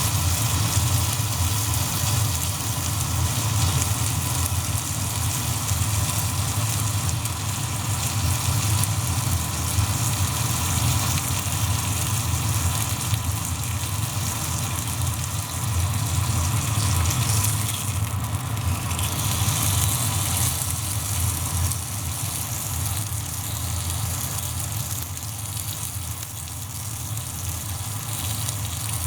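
Pork belly sizzling over a small wood fire, over a steady low hum.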